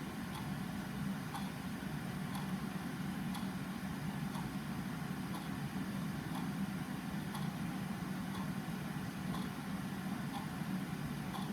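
Clock ticking about once a second over a steady low background hum.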